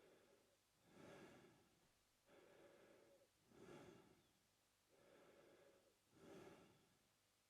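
A man breathing slowly and faintly through his open mouth. Each longer, even breath of about a second is followed by a shorter, louder puff, giving about three breath cycles.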